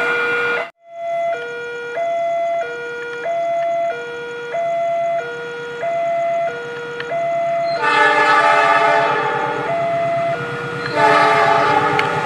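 Railway level-crossing warning alarm sounding its two alternating tones, switching about every two-thirds of a second, after a brief cut-out under a second in. About eight seconds in, a train horn sounds with the rumble of the train, and it sounds again about three seconds later, louder, over the continuing alarm.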